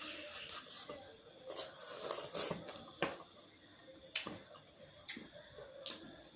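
Close-miked eating sounds: chewing and mouth smacks, with several sharp clicks spread irregularly through.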